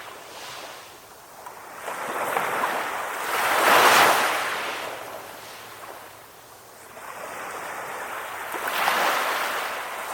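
Calm sea waves breaking, with the surf's hiss swelling and fading. The biggest surge comes about four seconds in, and another builds near the end.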